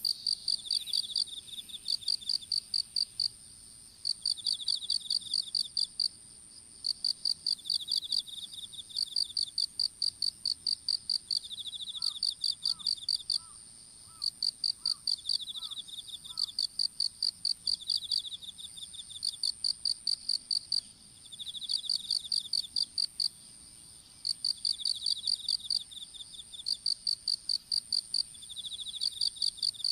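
Crickets and other insects calling in a field. Trains of rapid, high chirps about a second and a half long repeat every couple of seconds, answered by a slightly lower pulsed chirp from a second insect, over a steady high-pitched trill.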